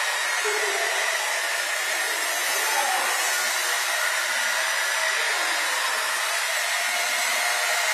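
Blue Fly HP 100 flybarless RC helicopter's motor and rotor whirring steadily in flight.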